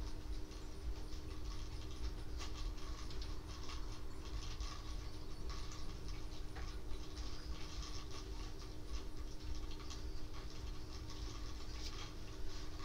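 Rain falling in a steady patter of many small drop ticks, with a faint steady hum underneath.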